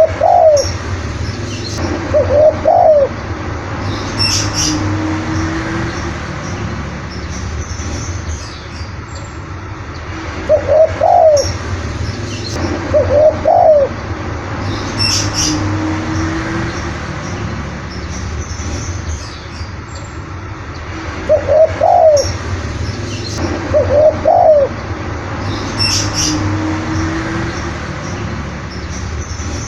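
Spotted dove cooing its phrase three times, about ten seconds apart: two loud coos followed by a softer, lower drawn-out note. Faint high chirps from small birds and a steady low hum run underneath.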